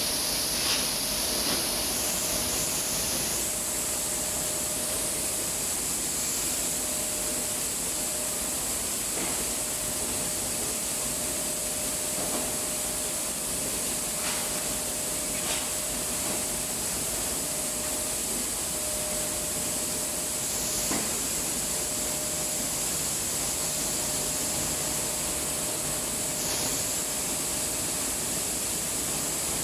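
Rice mill plant machinery running steadily: a constant rushing hiss with a steady mid-pitched hum and a high whine, and a few faint clicks.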